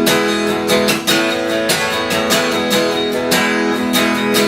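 Acoustic guitar strummed in a steady rhythm between sung lines of a folk song.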